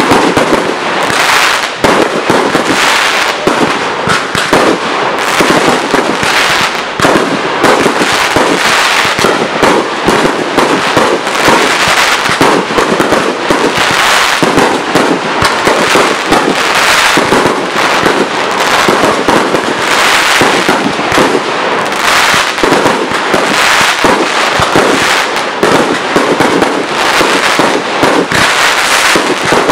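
Professional fireworks display in full flow: aerial shells bursting one after another, rapid overlapping bangs and crackle in a loud, unbroken barrage.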